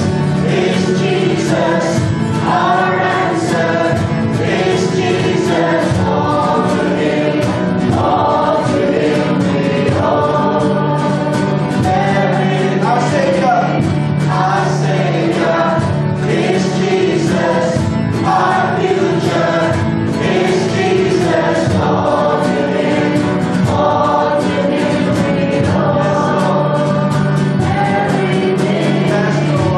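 A choir singing a slow gospel worship song together over steady, sustained accompaniment chords.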